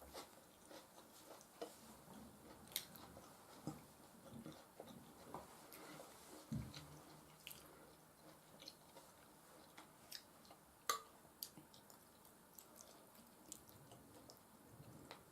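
Faint, close-miked chewing of soft food, with scattered small wet mouth clicks and smacks and one sharper click about 11 seconds in.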